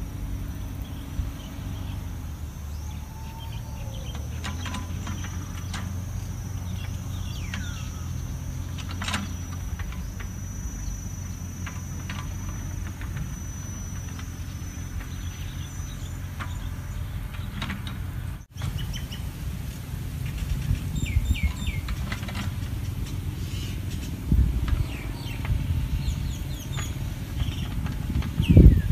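Small birds chirping in short, scattered calls over a steady low outdoor rumble, with a thin high steady tone through the first half. A few low thumps come near the end.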